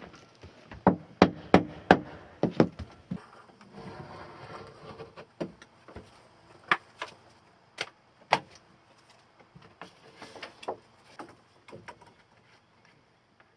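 Wooden knocks and bangs from carpentry work on a wood frame: a quick run of four hard strikes about a second in, a short scrape, then scattered lighter knocks.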